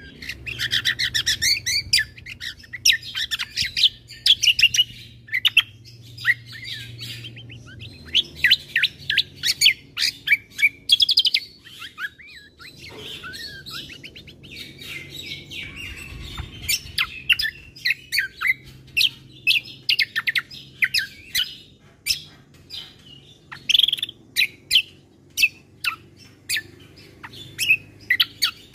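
Kecial kombo (cucak kombo) songbird singing a fast, varied song of chirps, trills and sharp high notes, with a brief lull about twelve seconds in. A faint low hum sits underneath.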